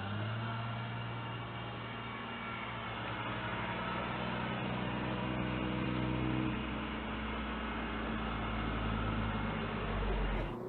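A motor vehicle's engine running, a steady low hum under road noise.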